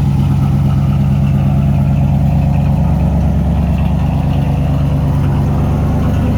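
1991 OBS pickup's 5.7-litre V8 idling steadily.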